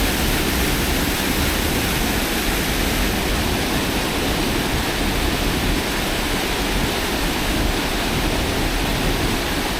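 Steady rush of floodwater pouring over a small dam and churning into white water.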